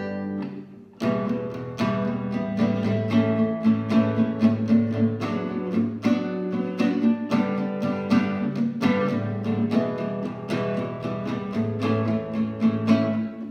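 Acoustic guitar playing an instrumental passage in quick picked notes, with a brief break about a second in.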